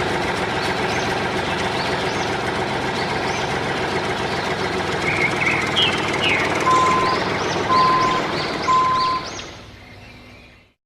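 An engine idling steadily, with birds chirping over it and three short, evenly spaced beeps about two-thirds of the way through. It fades out near the end.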